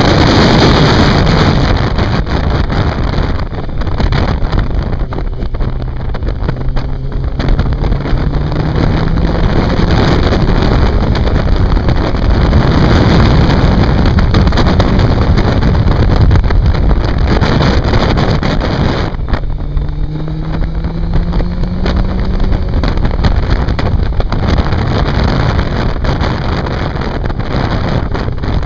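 Sport motorcycle engine heard from on board, running hard through bends under heavy wind noise on the microphone. The engine note climbs several times as the bike accelerates, with a brief sharp drop about nineteen seconds in before it climbs again.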